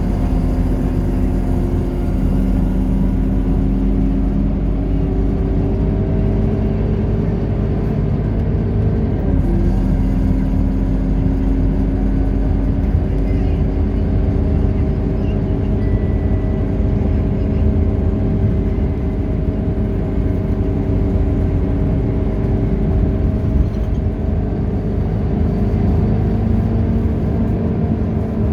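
Scania K230UB bus's five-cylinder diesel engine pulling under load: its pitch climbs, drops sharply about nine seconds in as the gearbox shifts up, then climbs slowly again and settles into a steady run.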